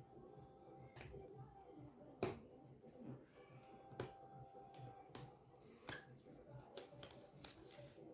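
Handling and opening a cardboard product box: a few separate sharp clicks and taps over faint background, the loudest about two seconds in.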